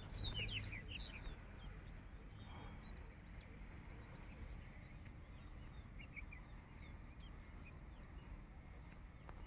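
Faint dawn ambience with small birds chirping: many short, high chirps scattered throughout, over a low background rumble that is strongest in the first second.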